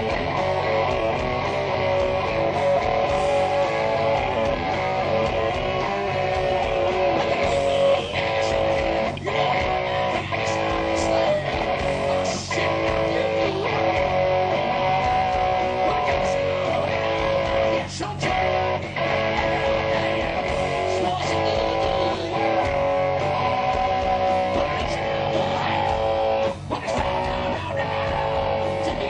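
Hard rock band playing live: an instrumental stretch led by electric guitar, over bass, with regular sharp drum hits.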